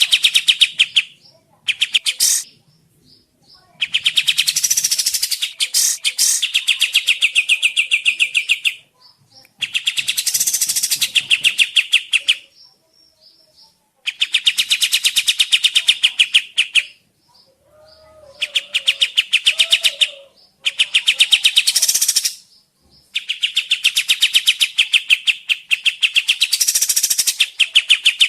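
Kapas tembak songbird singing: bouts of fast trilled notes, each lasting two to three seconds, repeated with short pauses between.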